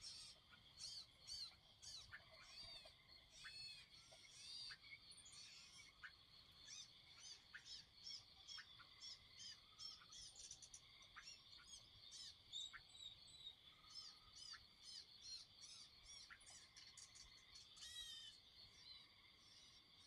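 Faint evening chorus of many birds chirping and calling, short quick notes coming several a second, over a steady high trilling chorus that never breaks.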